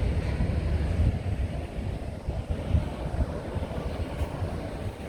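Outdoor city noise: a steady low rumble of traffic with wind buffeting the microphone.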